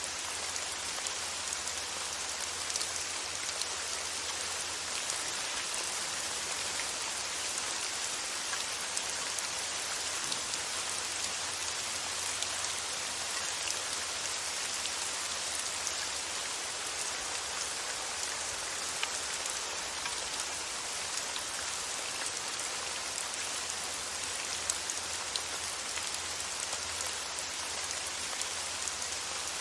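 Steady rain sound: an even hiss of rainfall with many small drop ticks, unchanging throughout, with a faint low hum beneath.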